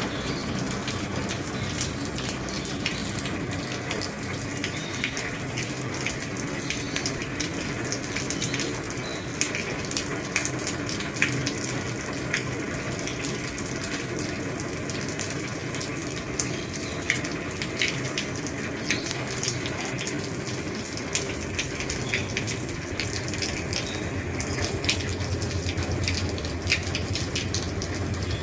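Heavy rain falling steadily on an old roof, a continuous hiss with many individual drops striking sharply through it. A low hum comes up near the end.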